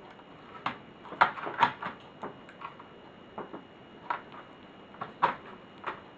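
Irregular sharp clicks and taps of plastic laptop parts, screws and tools being handled, about a dozen in six seconds.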